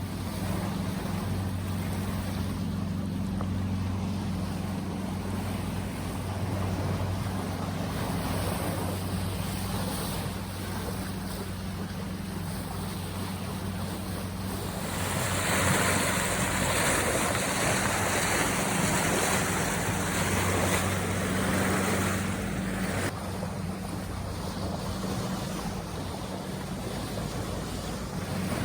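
A sailboat's engine running with a steady low hum under a wash of water and wind noise. About halfway through, the rushing noise swells and turns hissier for several seconds, then eases back.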